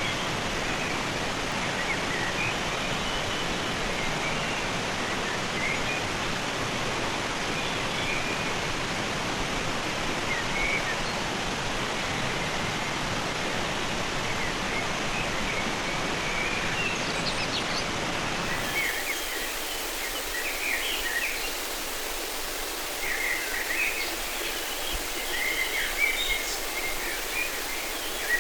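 Steady rush of river water with birds chirping over it. About two-thirds of the way in, the deep part of the water sound cuts off suddenly, leaving a thinner hiss under more frequent bird chirps.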